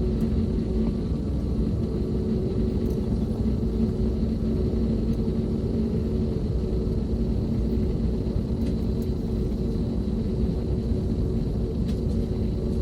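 Steady low rumble with a constant hum inside an Airbus A321neo cabin on the ground before takeoff.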